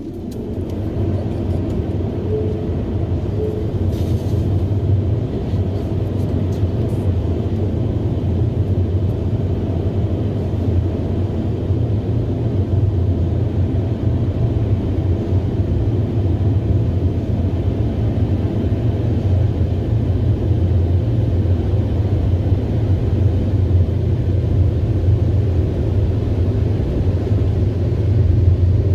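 Automatic car wash machine spinning up with a rising whine, then running with a loud, steady low drone.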